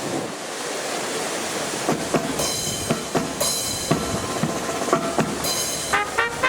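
Wind buffeting the microphone, then a marching band's drums and cymbals strike out an irregular run of hits about two seconds in, with three bright cymbal crashes. Short brass notes come in near the end, leading into a fanfare.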